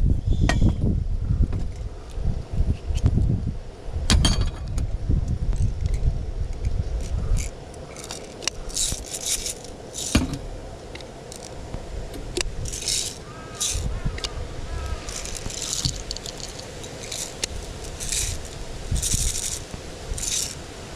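Camping gear being handled and packed: metal clinks, scrapes and rustling in short bursts. Wind rumbles on the microphone for roughly the first seven seconds.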